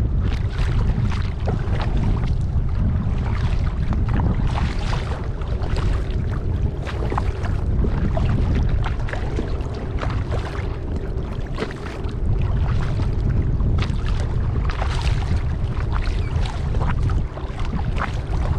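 Kayak paddle strokes dipping into lake water, with splashes and drips coming every second or so, over a steady low rumble of wind on the microphone.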